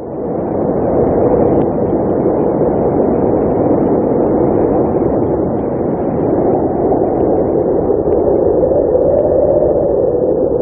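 Blizzard wind blowing steadily, a dense low rush with a faint howl. It builds up over the first second and swells a little near the end.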